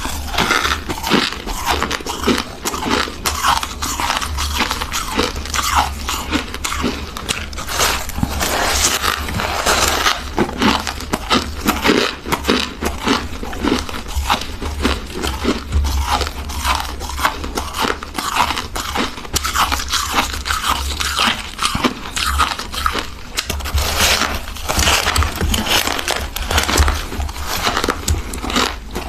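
Freezer frost being bitten and chewed: a dense, irregular run of crisp crunches and crackles with no pauses.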